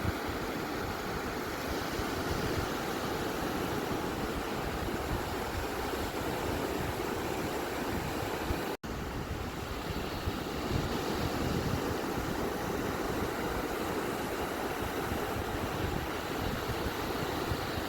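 Continuous rush of ocean surf, a steady even wash without distinct separate breakers, cutting out for an instant about nine seconds in.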